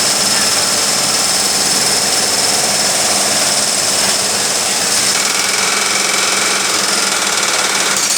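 Pneumatic taphole drill hammering into a blast furnace's taphole to open it for casting: a loud, continuous, fast rattling with a thin high whine. The pitch of the whine shifts a little about five seconds in.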